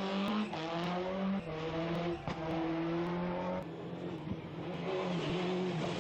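Rally car engine running at high revs as it races past, its note stepping in pitch with gear changes. The note fades about three and a half seconds in, then an engine is heard again from about five seconds, its pitch falling near the end.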